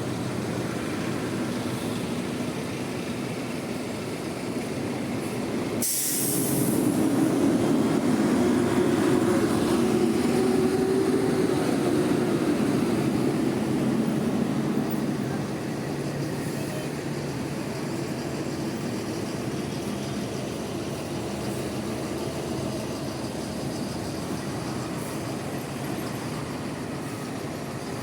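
Bus engines running, with a short sharp hiss about six seconds in, after which one bus's engine runs louder for about nine seconds before settling back.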